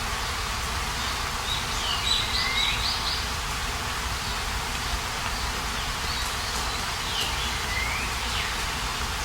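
Outdoor nature ambience: a steady hiss like wind in leaves or insects, with a songbird singing two short, sweeping phrases, the first about a second and a half in and the second about six and a half seconds in.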